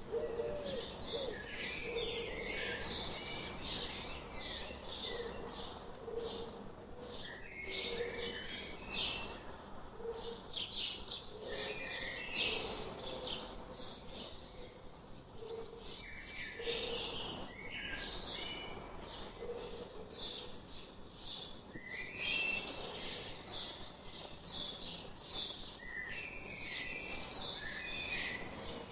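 Mixed birdsong: many short high chirps and twittering calls, over a low short call repeated every second or two.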